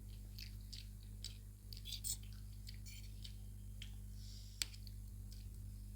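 Faint eating sounds from noodles being chewed: irregular small wet clicks and smacks of mouths chewing, with a steady low hum underneath.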